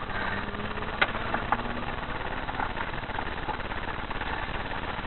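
Car engine idling steadily, with a few short sharp clicks in the first three seconds.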